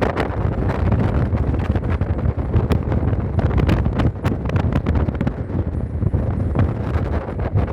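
Wind rushing over the microphone: a loud low rumble with frequent sharp crackles.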